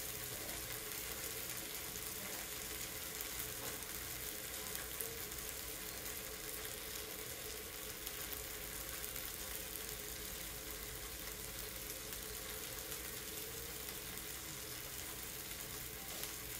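Chicken breasts sizzling in oil on a stovetop griddle: a steady frying hiss with faint crackles.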